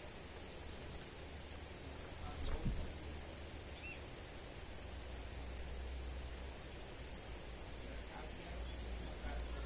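Small birds giving short, very high-pitched chirps at irregular intervals, a few of them louder and sharper than the rest, over a faint low rumble.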